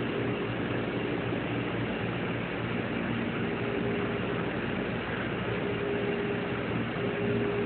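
Steady room noise of an aquarium viewing hall: an even hiss with a low machine hum, and faint tones that come and go.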